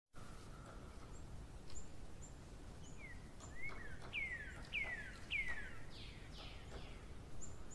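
Faint birdsong: a bird repeats short chirps that sweep downward in pitch, a little under twice a second, through the middle, with a few brief high notes around them, over a low steady hiss.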